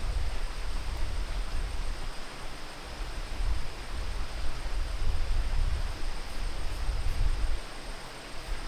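Wind buffeting the microphone outdoors: a gusty low rumble that rises and falls over a steady hiss.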